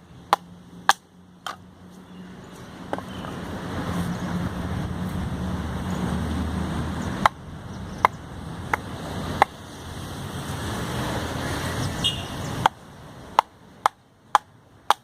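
Hatchet blade striking and splitting firewood logs: sharp single chops, a few near the start, a cluster in the middle and a quick run of four or five near the end. A low rumbling noise underlies the middle strikes and cuts off suddenly before the last run.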